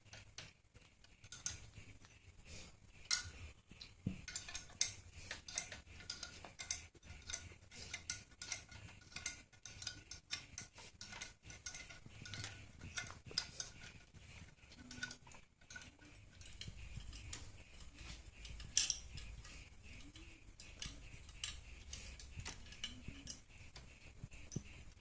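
Irregular metallic clinks and clicks of hand tools and engine parts being handled and set down during an engine teardown.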